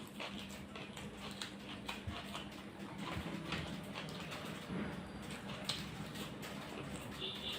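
Close-up eating sounds: wet chewing and lip-smacking over curry and rice, a run of irregular short clicks, with a steady low hum underneath.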